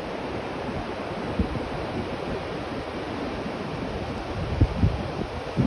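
Steady rushing wind noise on the microphone, with a few low buffeting thumps from gusts, most of them near the end. No snipe calls are heard.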